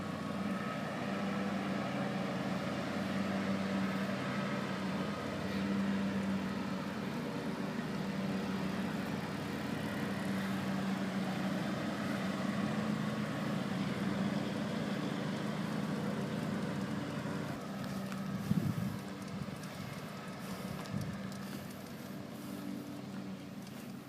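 A steady engine hum with a low drone, as from a motor vehicle running nearby. It eases off about three-quarters of the way through, with a brief louder bump around then.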